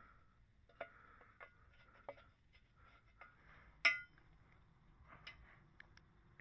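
Faint scattered knocks and clinks of metal being handled, with one sharp metallic clink about four seconds in that rings briefly.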